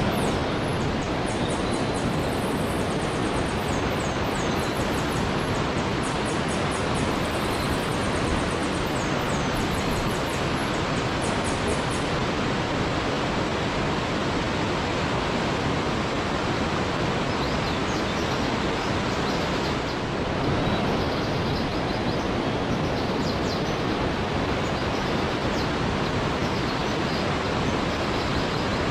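Steady, unbroken rush of a waterfall. Rows of short high-pitched chirping calls sound over it for the first dozen seconds, and fainter ones return later.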